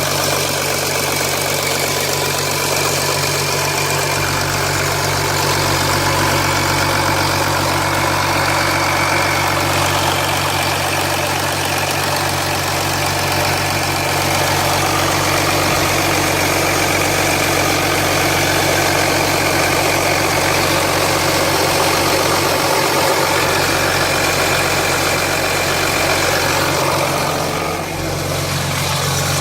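2007 Jeep Grand Cherokee 3.0 CRD's Mercedes OM642 V6 turbodiesel idling steadily just after a cold start, with a rattle that the owner thinks could be timing chain trouble.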